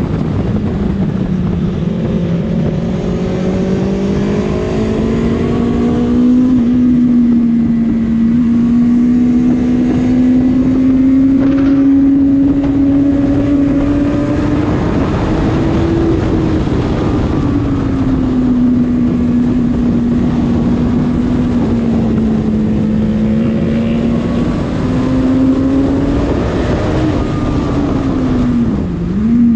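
Honda CBR600RR inline-four engine running hard on track. Its pitch rises and falls steadily as the revs change, then dips sharply and climbs back quickly near the end.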